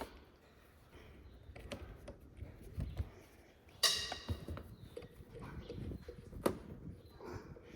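Metal engine parts and tools knocking and clinking as a piston and connecting rod are worked out of a tractor engine, with one sharp ringing metallic clang about four seconds in and another sharp click later.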